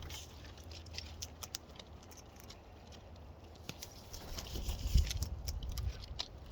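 Wild cockatoos feeding at close range: a scatter of quick clicks and taps from beaks and claws on seed and the feed bucket. A low rumbling bump about five seconds in is the loudest moment.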